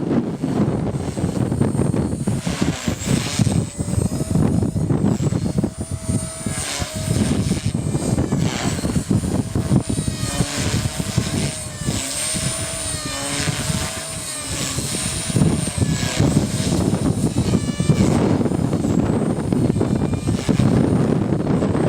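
Align T-Rex 250 electric RC helicopter's motor and rotor whining, the pitch rising and falling again and again as it manoeuvres. Strong wind rumbles on the microphone underneath.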